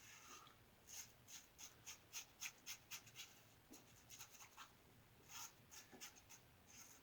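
Faint, quick scraping strokes of an injector-style razor with a Schick injector blade cutting through stubble, several strokes a second in a run, then a pause and a few more.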